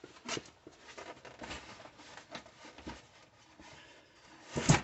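Scattered light knocks and clicks as the small 3 hp engine is handled and set back into its box, with a louder thump near the end.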